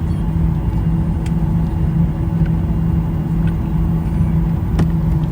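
Airliner cabin noise while on the ground before takeoff: a steady low rumble with a constant engine and air-system hum. A single light click about five seconds in.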